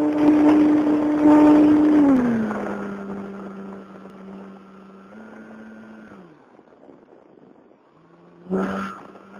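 Small model airplane's motor and propeller running at a steady high pitch, throttling down about two seconds in and fading away. Near the end it comes back, with a brief loud surge as the pitch rises again.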